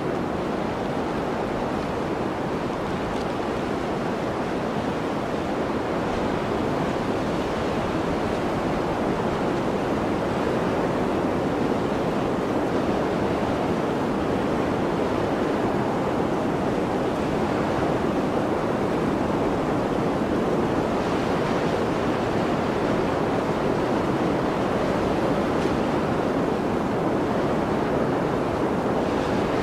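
Blizzard wind blowing steadily, a constant rushing noise without gusts or breaks.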